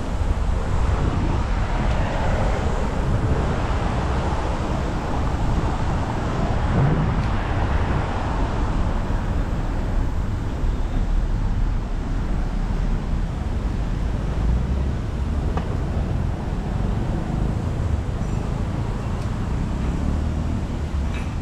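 Road traffic noise: a steady low rumble of passing vehicles, with no single engine standing out.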